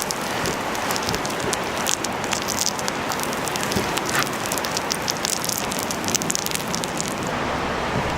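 Steady sizzling and crackling from cooking over a wood fire, with many small sharp pops throughout. Near the end it changes to a softer hiss with a low hum.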